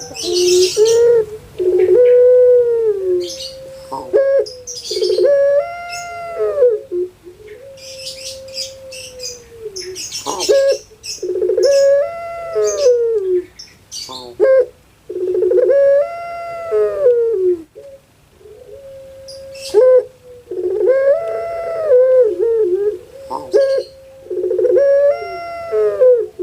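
Puter pelung (domesticated ringneck dove) cooing over and over: each call a held note followed by an arching, rolling coo that rises and falls, repeating every few seconds. Small birds chirp high and faint in the background.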